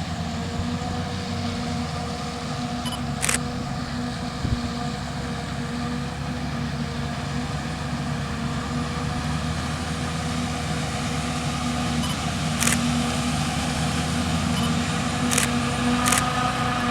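JCB 3230 Fastrac's Cummins diesel engine running steadily at an even pitch, slowly getting a little louder, with a few sharp knocks or clicks over it.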